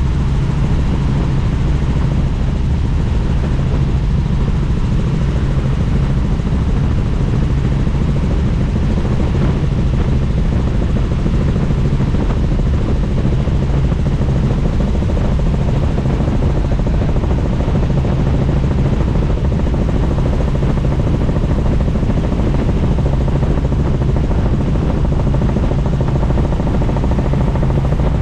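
Helicopter in flight with its doors off: steady, loud rotor and engine noise mixed with wind rushing past the open cabin.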